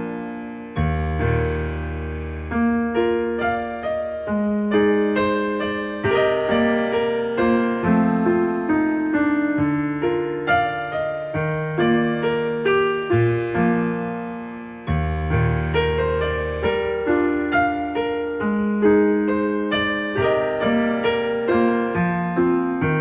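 Solo piano music, slow and gentle, with sustained notes and a deep bass note struck about a second in and again about fifteen seconds in.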